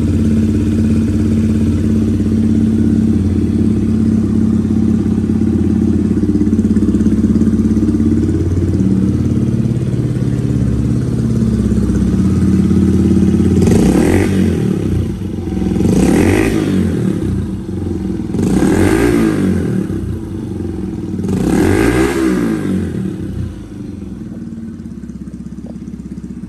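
Kawasaki KSR110's single-cylinder four-stroke engine, breathing through an aftermarket Beams muffler, idling steadily, then revved four times in quick throttle blips, each rising and falling back, before settling back to idle.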